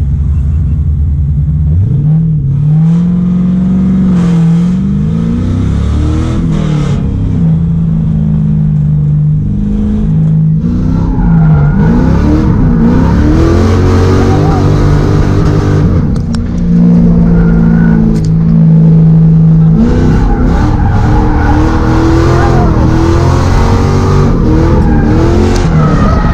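LS V8 engine of an S13 Silvia drift car revving hard, its pitch sweeping up and down again and again with stretches of a few seconds held at steady high revs, as the car is driven in a drift.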